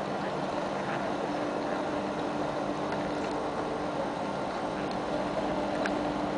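Regional passenger train moving slowly alongside the platform: a steady hum with a faint steady tone, growing a little louder near the end.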